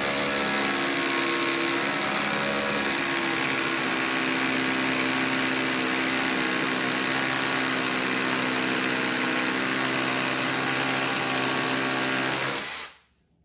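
Huepar 20V brushless cordless SDS hammer drill running steadily at full speed, hammer-drilling with a 5/8-inch bit. It stops about a second before the end.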